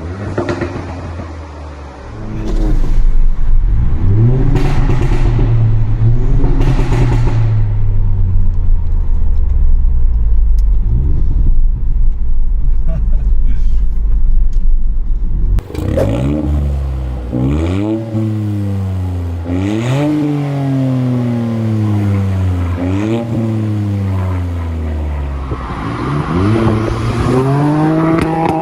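Ford Fiesta ST Mk8's turbocharged three-cylinder engine and exhaust revving. A few quick rev blips and a steady hold give way, after a sudden cut, to a string of rev rises that each sink slowly back down.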